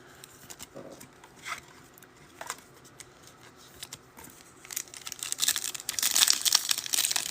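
A few faint clicks, then from about five seconds in a foil trading-card pack wrapper being torn open and crinkled.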